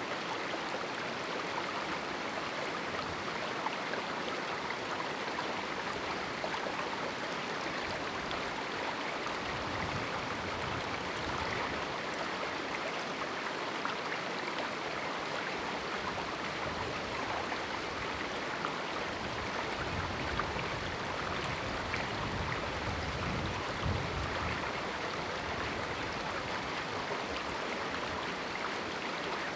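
River water flowing steadily through a small canyon: a continuous, even rush and babble of water, with a faint low rumble swelling now and then.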